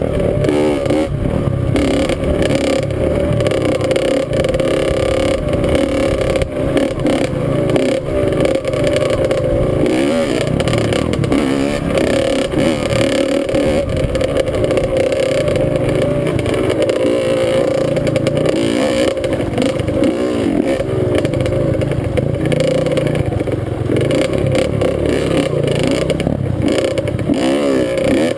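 Dirt bike engine running continuously as it is ridden, its pitch wavering up and down with the throttle.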